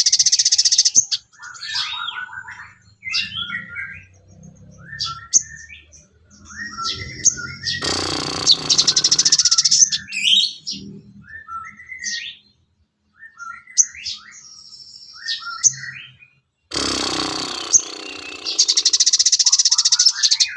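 Recorded songbird song: long, rapid, high trills of a few seconds, three times, with quick chirping phrases between them.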